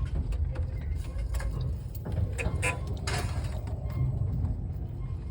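Tower crane creaking and clicking as it works in strong wind, over a low, uneven rumble.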